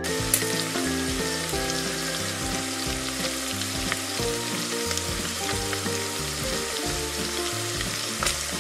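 Steady frying sizzle, a sound effect laid over slime being poured and stirred in a plastic toy frying pan, with a few light clicks of the plastic spatula. A soft tune plays underneath.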